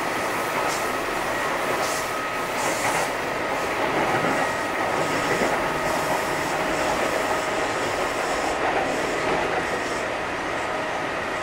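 Kintetsu 8000 series electric train running at speed, heard from inside the car: a steady rumble of wheels on rail with a few constant whining tones and occasional brief hissy swells.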